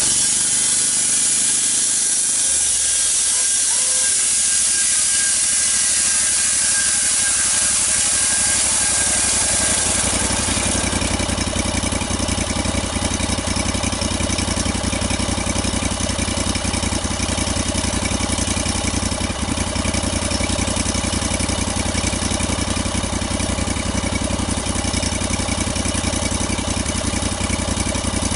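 A steady high hiss for about the first ten seconds, then an engine running steadily.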